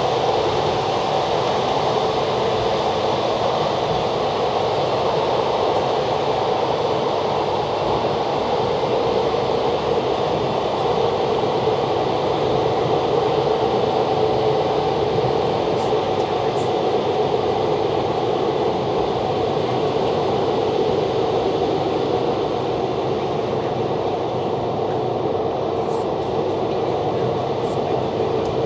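Steady running noise of a moving train, an even rumble and rush with no distinct clicks or breaks.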